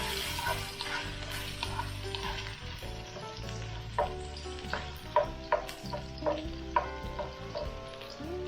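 Sliced ginger sizzling as it fries in hot oil in a wok, with several sharp clicks against the pan from about four seconds in.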